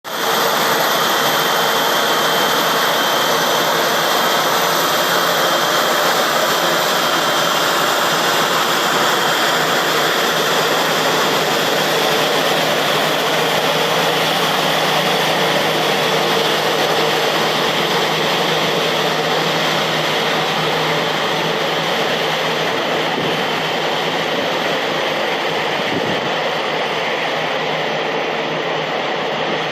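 Airbus A321 jet engines running: a loud, steady rush of noise with a thin high whine over it, easing off a little over the last third.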